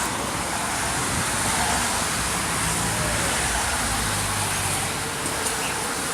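Street traffic: a steady wash of passing car and vehicle noise, with one engine's low hum rising and fading about two to five seconds in.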